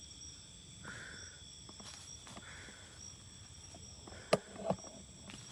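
Night insects trilling steadily at a few high pitches, with soft rustling footsteps on the ground and two sharp cracks about four seconds in.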